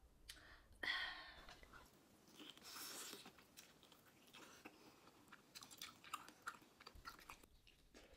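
A person chewing food close to the microphone: irregular wet mouth clicks and small crunches, with a louder sudden sound about a second in.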